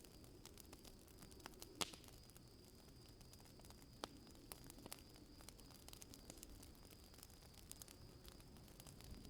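Faint campfire crackling from a nature-ambience backing: sparse, irregular pops and clicks over a low hiss, with a steady high-pitched tone running under it.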